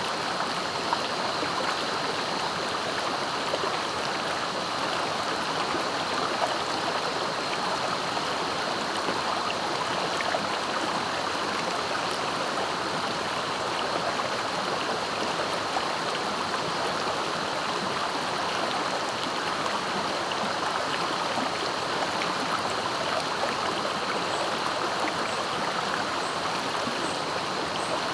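Swift river water flowing steadily, an even, unbroken rush of moving water.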